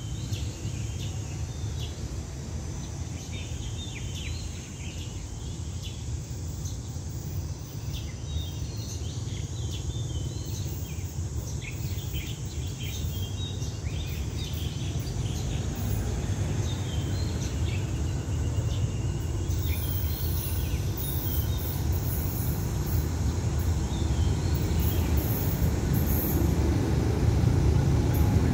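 Low rumble of an approaching diesel locomotive and its train, growing slowly louder as it nears. Birds chirp over it in the first half.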